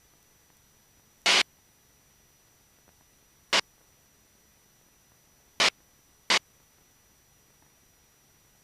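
Four short bursts of static hiss, the last two close together, over an otherwise near-silent background.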